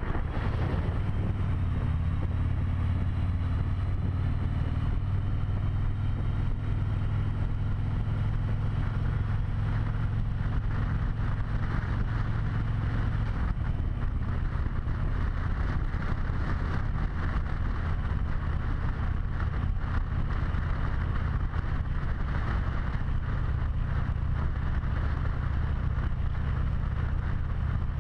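Harley-Davidson V-twin motorcycle engine running steadily on the move, with wind noise on the helmet-mounted microphone. The engine note shifts a little about halfway through.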